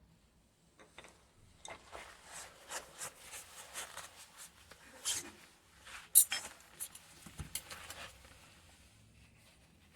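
Hands working on washing-machine parts: irregular rubbing and scraping with scattered clicks, one sharp click a little over six seconds in, and the noise dying away near the end.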